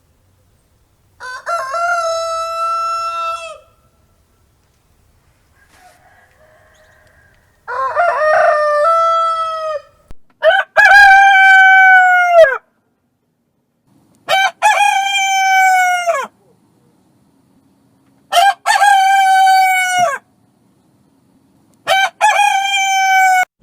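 Rooster crowing six times, each crow about two seconds long and dropping in pitch at the end.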